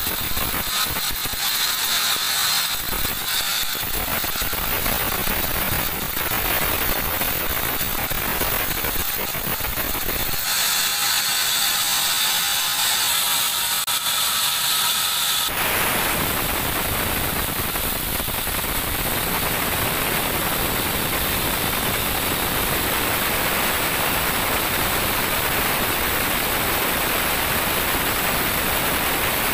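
Large band sawmill running and sawing a teak log: a loud, steady mechanical noise that changes character about halfway through.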